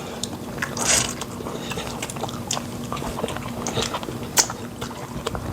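Close-up eating sounds: wet mouth clicks and chewing of fufu and pepper soup, with a short rushing burst about a second in and a sharp click about four and a half seconds in.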